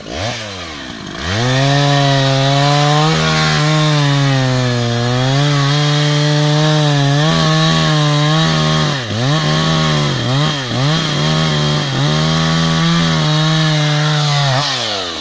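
Chainsaw blipped a few times, then held at full throttle while cutting into a tree, its pitch sagging slightly under the load. Around the middle the throttle is let off and opened a few times in quick succession before it runs on, then it winds down near the end.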